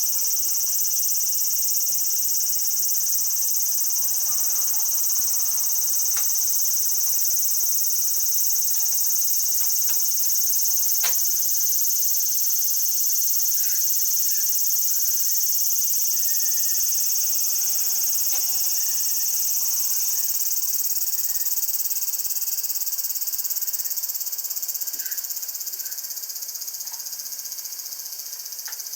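A chorus of cicadas buzzing, a dense, shrill, unbroken drone that eases off a little near the end.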